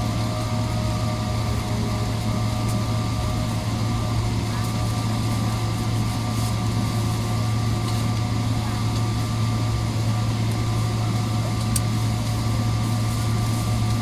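Steady aircraft cabin drone inside a Boeing 777-300ER: a constant low hum of the engines and air system, with a few faint steady tones and no change in level.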